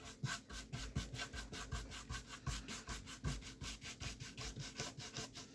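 A paintbrush scrubbing gouache onto paper in quick back-and-forth strokes, about five a second: a soft, even scratching.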